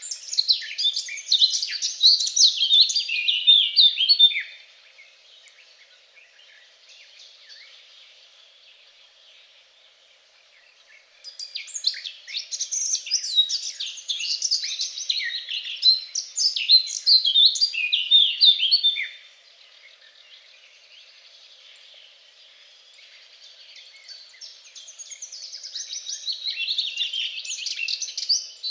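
A songbird singing long bouts of rapid, varied high notes: one bout ends about four seconds in, a second runs from about eleven to nineteen seconds, and a third builds up near the end, with quiet pauses between them.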